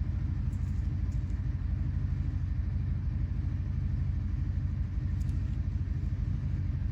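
A steady low mechanical rumble, with a few faint ticks over it.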